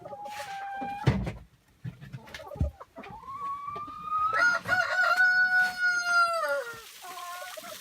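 Rooster crowing: one long crow starting about three seconds in that rises, holds and falls away. Before it there are short chicken calls and a sharp knock about a second in.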